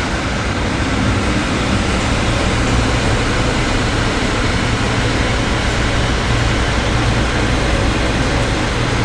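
Steady, loud roar of hurricane wind and rough sea aboard a ship, with a low steady hum underneath.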